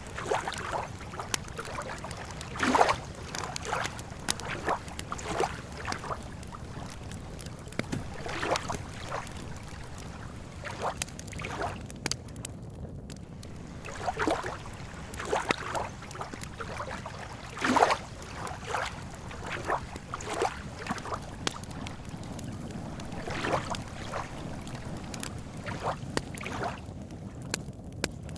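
Lake water lapping and splashing gently at irregular intervals, over a steady low rush, with a campfire crackling.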